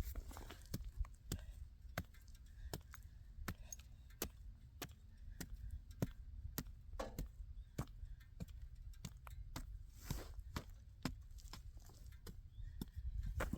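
Irregular sharp knocks and clicks, about two or three a second, like chopping or digging at the ground with a hand tool.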